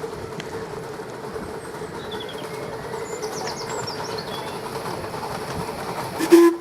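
Miniature steam railway train running along the track, with a steady hum throughout and a short, loud burst near the end.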